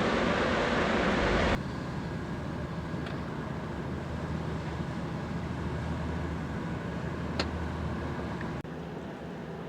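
Loud rushing wind and water noise that cuts off abruptly about a second and a half in, giving way to a quieter, steady low motor drone, with one sharp click about seven seconds in.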